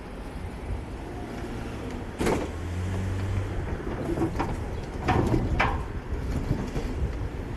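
City street traffic: vehicle engines running over a steady road noise, with a low engine hum for a couple of seconds. About two seconds in comes a brief sharp burst, then a few shorter sharp sounds around the fifth second.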